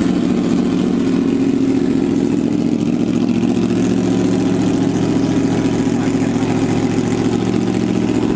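2018 Yamaha R1's crossplane inline-four idling steadily through an aftermarket eBay slip-on exhaust.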